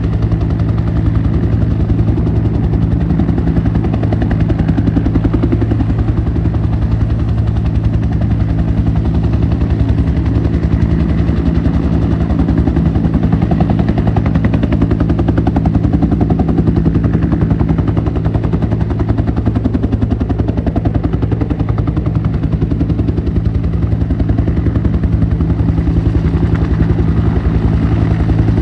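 Military helicopter running close by, a loud steady rotor beat with a low engine drone that holds unchanged throughout.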